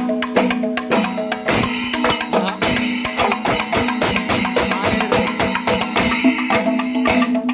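Kerala temple melam ensemble playing: fast, dense drum strokes and hand cymbals over a steady held wind-instrument tone, with a few shifting melody notes above it.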